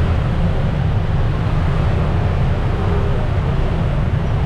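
Steady, loud low engine rumble with a noisy hiss over it, typical of a ferry's engines and idling motor scooters during unloading.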